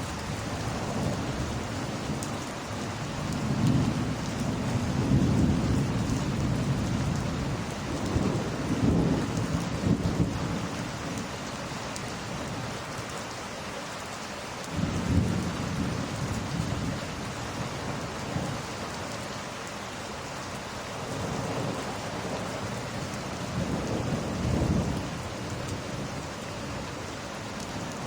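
Steady heavy rain with thunder rumbling low again and again, each roll swelling and fading over a few seconds.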